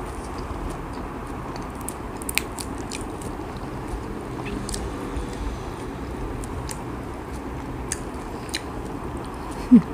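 Close-miked chewing of banana spring roll (popia pisang), with scattered soft crunches and wet mouth clicks. Just before the end, a short loud sound with a falling pitch.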